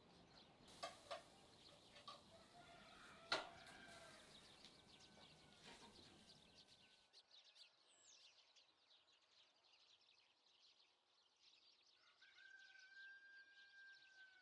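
Near silence: faint outdoor ambience with distant birds chirping and a held whistled note near the end, and a sharp click about three seconds in.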